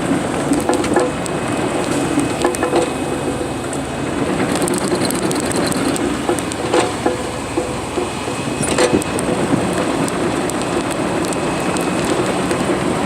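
Excavator running steadily, with scattered sharp cracks and clanks as it works; two of the knocks, about 7 and 9 seconds in, stand out.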